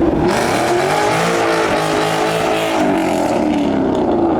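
Car engine revving: the pitch climbs over about a second, holds high, then falls back toward idle near the end.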